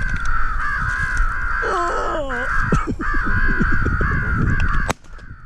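Crows cawing in a dense, almost unbroken chorus, with wind rumbling on the microphone underneath; both cut off abruptly near the end.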